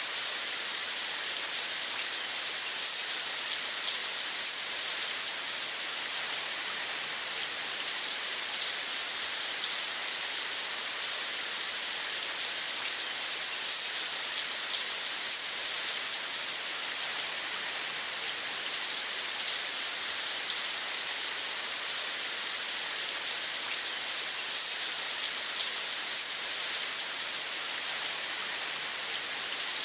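Steady rain falling, a dense even patter that holds at one level.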